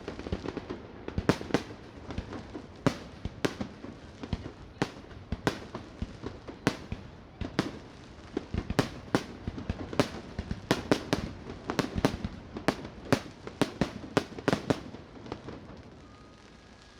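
Fireworks display: a rapid, irregular series of sharp bangs over a continuous crackling rumble, stopping about two seconds before the end.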